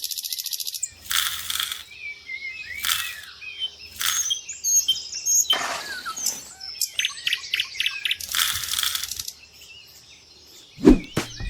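Many small birds chirping in quick short calls, mixed with several brief harsh noisy bursts. There is a single low thump near the end.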